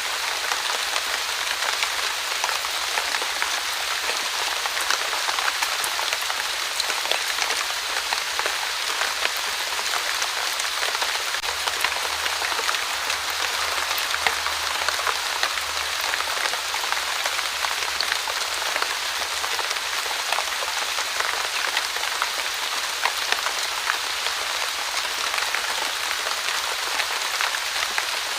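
Light drizzle falling steadily: an even hiss of rain, dotted with many small, sharp ticks of individual drops.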